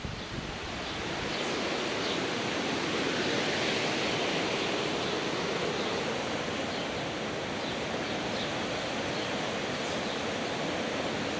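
Steady rushing noise, with faint short high peeps now and then.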